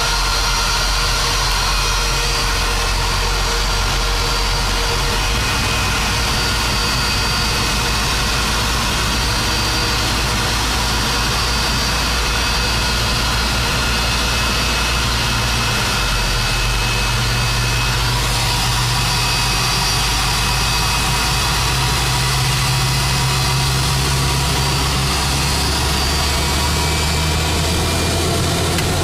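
Airliner jet engines running at idle: a steady loud rush with thin high whine tones and a low drone that shifts in pitch a few times.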